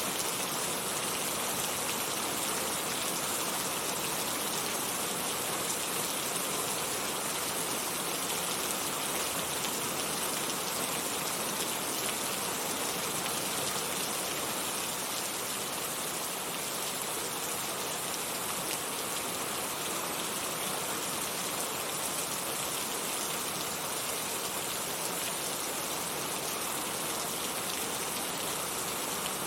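Heavy rain falling steadily, a dense even hiss of countless drops on surfaces.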